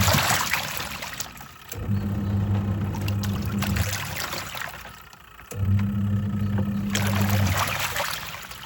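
Twin-tub washing machine's wash tub churning clothes in water. The motor hums for about two seconds at a time, stops briefly and starts again as the pulsator reverses, with water sloshing around each changeover.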